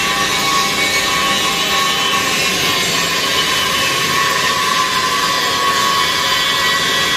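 Angle grinder running steadily against steel, a loud continuous whine with a harsh hiss over it.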